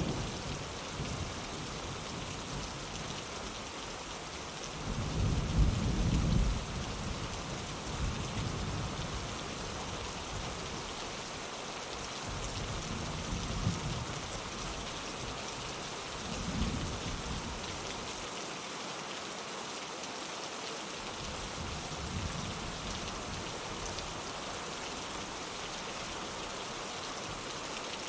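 Steady rain on a windowpane with low rolls of thunder. The loudest rumble comes about five seconds in and lasts over a second, and fainter rumbles follow every few seconds.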